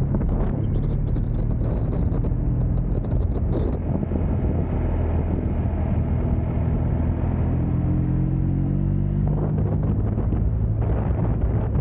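Motorcycle engine running on the move, its pitch climbing gradually through the middle as it accelerates. Wind rushes over the microphone, growing louder from about nine seconds in.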